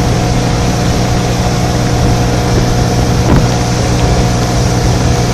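Motorboat engine running steadily under way, a constant even hum over a rushing noise.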